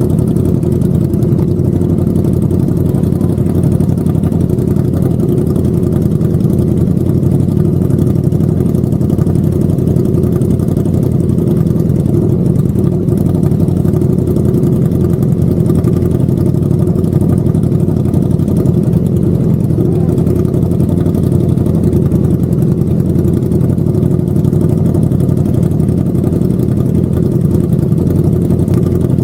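Vehicle engine running steadily at an unchanging speed, a constant low hum with no revving or breaks.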